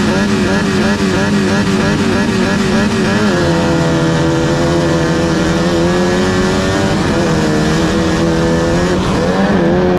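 Off-road race car engine running hard. Its pitch wavers rapidly up and down for the first three seconds, then holds a steadier note, with a brief rise near the end.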